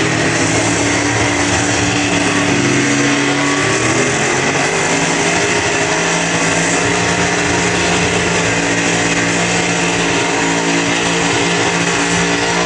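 Car engine running steadily, its pitch shifting briefly a couple of seconds in.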